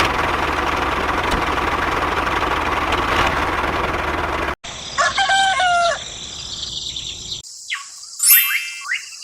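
A steady, noisy whir for about four and a half seconds that cuts off suddenly. Then a rooster crows once, about a second long, followed by quick rising whistle-like glides.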